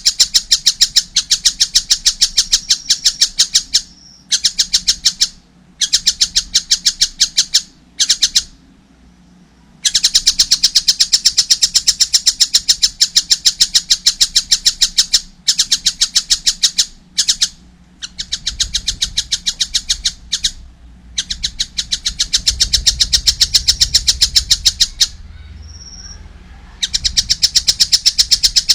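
A young collared kingfisher (tengkek buto) calling: a fast, loud series of sharp high notes, about five a second, in long runs broken by short pauses.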